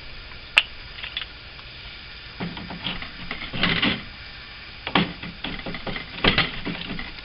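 A sharp click about half a second in, then irregular light taps and knocks of hand tools working on a wooden window frame while it is being reglazed.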